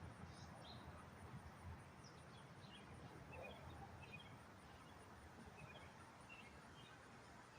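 Faint outdoor ambience: scattered short, high bird chirps over a low, steady background hum.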